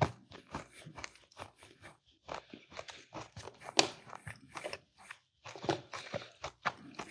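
Close-up crunching and chewing of mini cookies: a run of irregular crisp crackles and clicks.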